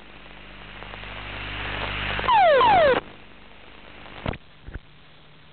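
Ejection from a T-45 Goshawk trainer after engine failure, heard through the cockpit audio. A rushing noise swells for about two seconds, then comes the loudest part: two falling tones lasting under a second. Two short knocks follow near the end.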